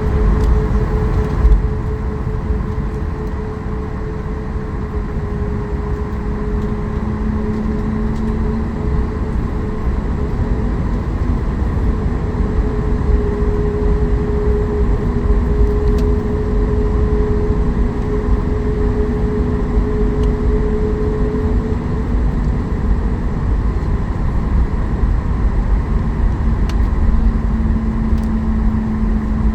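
Cabin noise of a Boeing 737 MAX 8 taxiing, its CFM LEAP-1B engines running at low taxi thrust. A steady low rumble carries two even hum tones that waver slightly in pitch.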